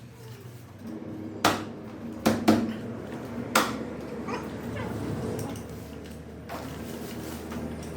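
Workshop repair work: about four sharp metallic knocks and clanks in the first half, then a few short squeaky sounds.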